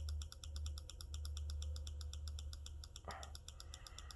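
Rapid, evenly spaced clicking from computer input, about nine clicks a second, over a steady low hum.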